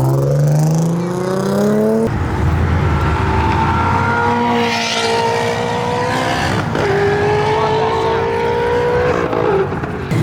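Car engine revving hard, its pitch climbing over the first two seconds, then an engine held at high, fairly steady revs that shift up and down a little.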